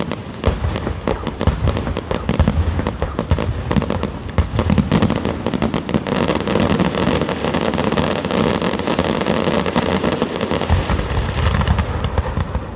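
Fireworks going off in quick succession: a dense, continuous run of sharp bangs and crackles, many per second.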